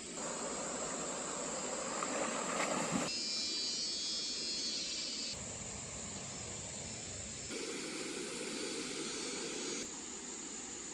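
Outdoor ambience of rushing stream water that changes abruptly every few seconds, as from short cut clips. In one stretch, from about three to five seconds in, insects buzz high and steady.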